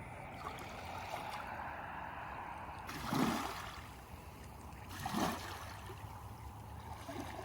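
Steady rush of flowing water from a waterfall and stream, with two brief louder swells about three and five seconds in.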